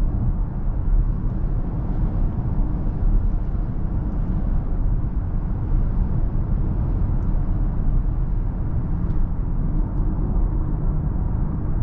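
Steady low road and tyre rumble of a BMW iX3 electric car on the move, with no engine note and no motor whine rising or falling.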